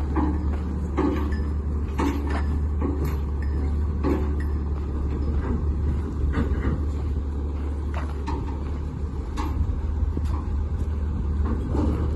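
A heavy vehicle's engine running steadily with a low drone, with scattered knocks and rattles over it.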